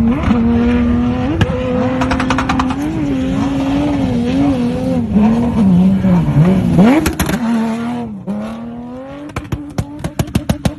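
Car engine running hard at high revs, its pitch wavering up and down, dipping and then rising sharply about seven seconds in before the noise drops away. Near the end a rapid run of evenly spaced clicks sounds over a fainter steady tone.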